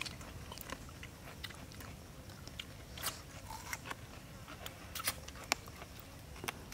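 A person chewing and biting a strip of cooked cow stomach (tripe) close to the microphone, with short, sharp mouth clicks at irregular moments, the loudest about three and five seconds in.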